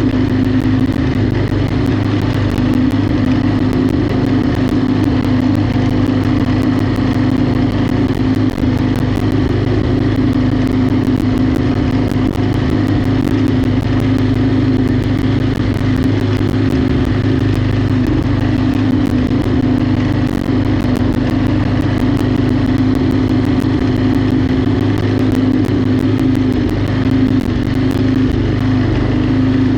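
Riding lawnmower engine running at a steady speed under load, a constant drone with faint clicks throughout.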